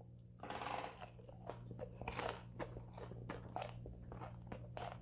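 A mouthful of deep-fried chicken gizzards being bitten and chewed, with quick, irregular crunches.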